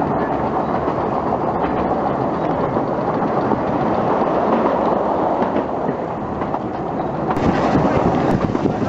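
Narrow-gauge heritage train running on the rails, a steady rumble of wheel and track noise. About seven seconds in, wind on the microphone adds a hiss.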